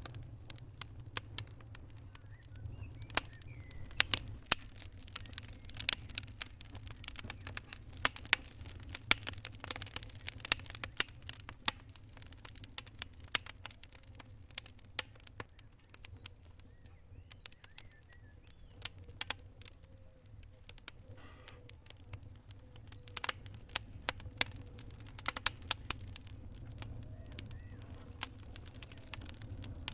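Wood fire crackling: irregular sharp pops and snaps, coming in clusters, over a low steady rumble.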